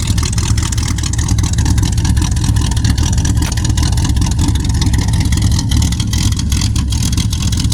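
Chevy 406 cubic inch stroker V8 running steadily through dual stainless steel exhaust, not yet warmed up.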